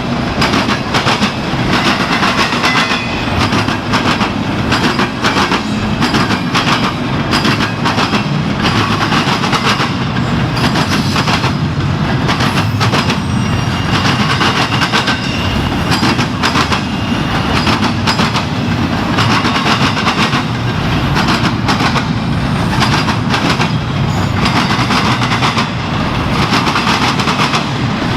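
Intermodal freight train's cars rolling steadily past at speed, wheels clicking rhythmically over the rail joints above a loud continuous rumble.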